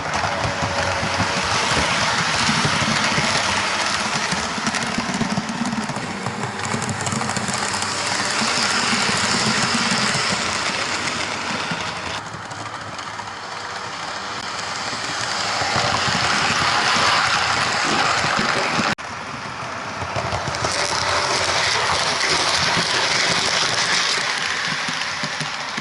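OO gauge model Rail Head Treatment Train running on the track, a dense whirring and rattling of motor and wheels that swells and fades several times as it passes. The sound changes abruptly twice, about 12 and 19 seconds in.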